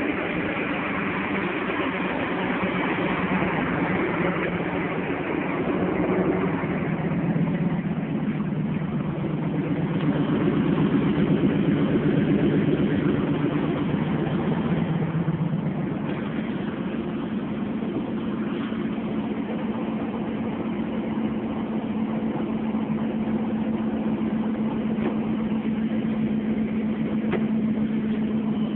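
Truck engine idling just after being started, a little louder for a few seconds in the middle.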